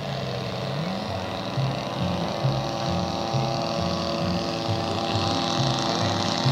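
Radio-controlled model airplane engines droning steadily in flight, with wind buffeting the microphone.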